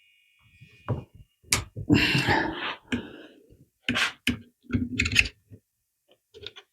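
A series of sharp knocks and clatter from handling wood and tools: a single knock, then a louder scraping rattle about two seconds in, and several more knocks around four and five seconds in.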